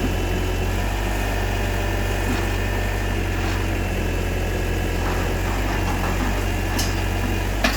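Power unit of a hydraulic concrete-pile pressing rig running steadily with a constant low hum, with a couple of short metallic clicks near the end.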